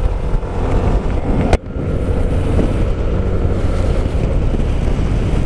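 Motorcycle on the move: wind buffeting the rider's microphone over the running engine, with one sharp click about a second and a half in.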